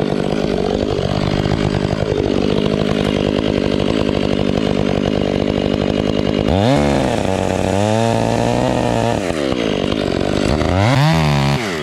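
Stihl chainsaw running steadily in the tree's face cut, then revved up and back down several times in the second half.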